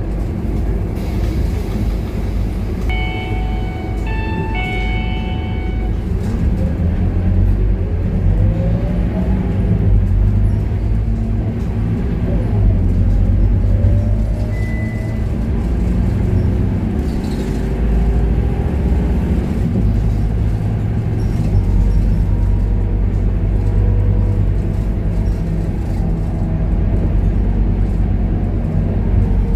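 Scania K230UB city bus's diesel engine rumbling under way, heard from inside the bus, with a whine that rises in pitch several times as the bus pulls away and accelerates. A string of short electronic beeps sounds about three seconds in.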